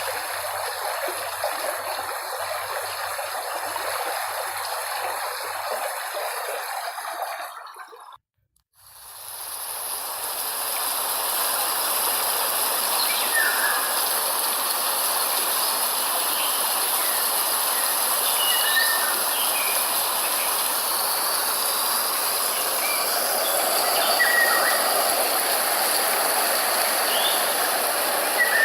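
Running water fades out about a third of the way in. After a moment of silence a new steady hiss fades in, with short bird chirps scattered through it.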